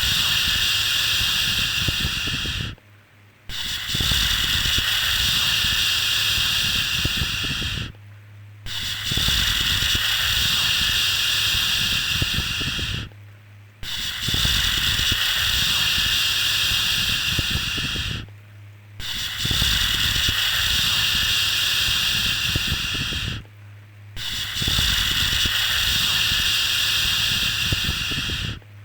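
Long shushing 'shhh' sounds for soothing a baby, repeated in a steady rhythm: each hiss lasts about four and a half seconds, with a brief pause about every five seconds.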